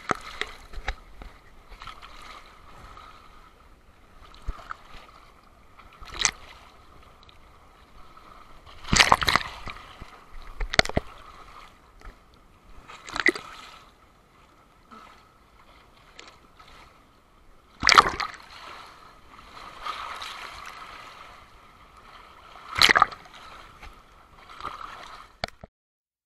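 Rough sea water sloshing and splashing, with about five loud sudden surges of waves breaking a few seconds apart.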